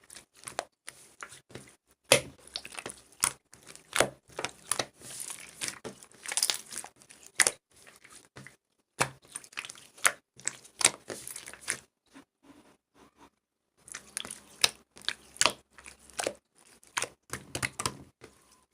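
Irregular crinkling and crackling, many sharp little crackles in bursts, with two short pauses.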